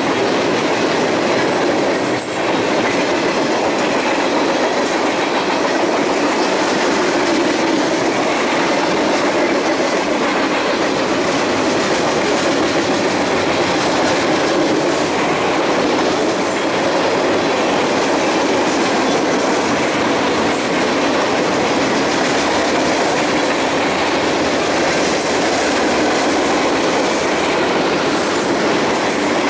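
Railroad cars rolling steadily past, wheels clacking over the rail joints.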